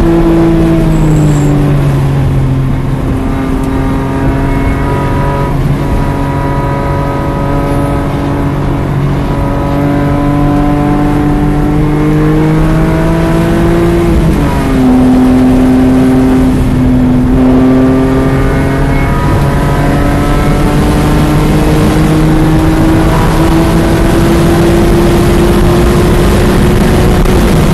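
BMW E46 M3's S54 inline-six pulling hard on track, heard from inside the cabin. The engine note climbs slowly, drops sharply at a gear change about halfway through and gets louder, then climbs steadily again up to about 118 mph. It starts to fall right at the end.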